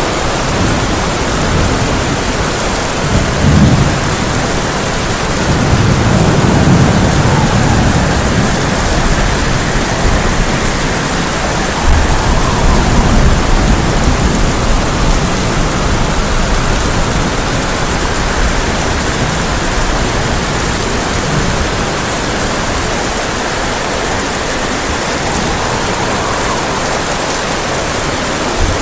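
Heavy rain drumming steadily on a tin roof, with thunder rumbling several times: once about three seconds in, longer rolls a few seconds later and again near the middle.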